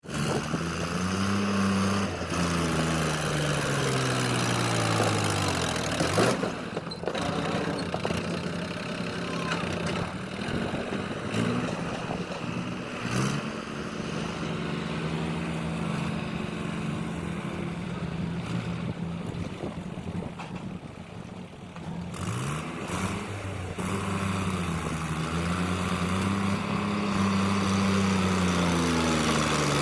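Tractor engine running, its pitch falling and rising several times as the revs drop and pick up again.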